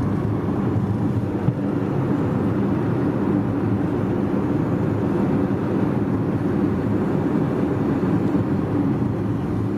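Steady low droning vehicle noise heard from inside a moving car, unchanging throughout; the driver has just asked what the noise is.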